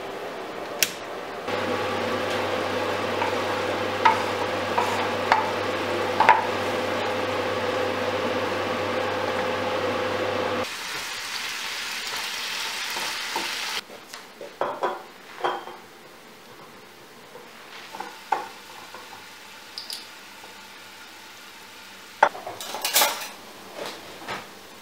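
Kitchen cooking sounds: food sizzling in a pan over a steady hum, with occasional taps of a utensil. After about fourteen seconds come separate clinks and knocks of utensils and dishes.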